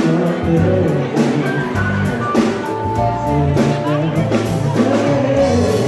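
Live pop band music with a drum kit keeping a steady beat and a voice over it.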